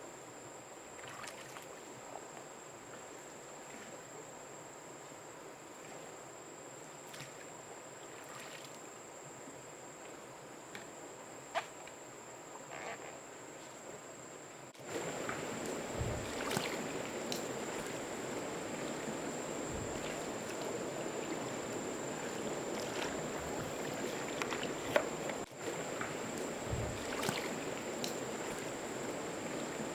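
Water ambience with a steady high insect whine and scattered small knocks and splashes. It turns suddenly louder and fuller about halfway through and drops out briefly near the end.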